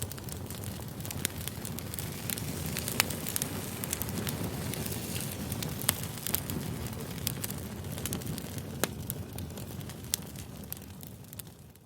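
Campfire burning, crackling with scattered sharp pops and snaps over a steady low rush of flame.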